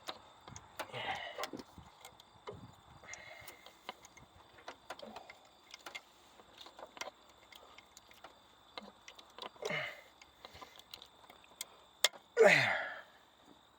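Plastic wiring-harness connectors and loose wires clicking and rattling as they are handled, in scattered light ticks. Near the end comes one short, louder sound that falls in pitch.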